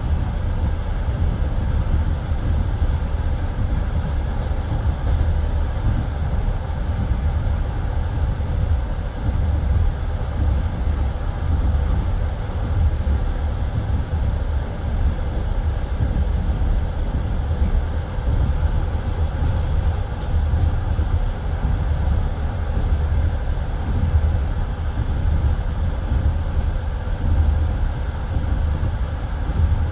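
Passenger train carriage running along the line, heard from inside the car: a steady low rumble of the wheels on the rails.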